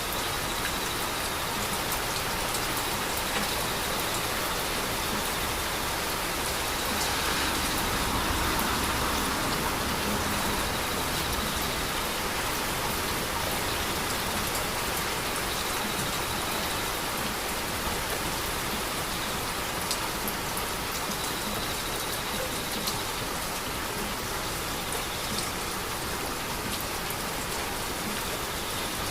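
Heavy rain falling steadily, with scattered sharp drop ticks; it swells a little about seven to ten seconds in.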